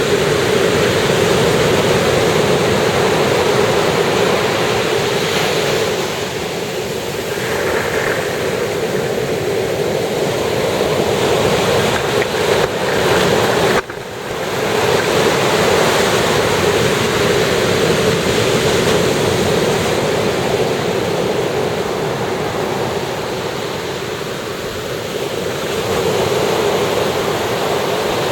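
Ocean surf breaking and washing on the shore: a steady rush of water that swells and eases over several seconds as the waves come in. There is a brief sharp drop in level about halfway through.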